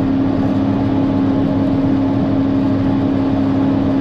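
John Deere 4960 tractor's six-cylinder diesel engine running steadily at road speed, a constant drone with a strong steady hum.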